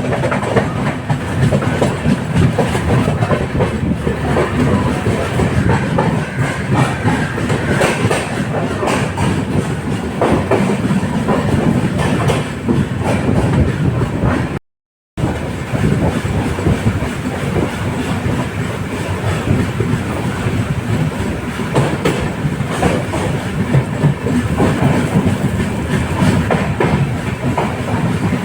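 Passenger train of LHB coaches running steadily, with a constant rumble and rapid clickety-clack of wheels over the rails. The sound cuts out completely for about half a second about halfway through.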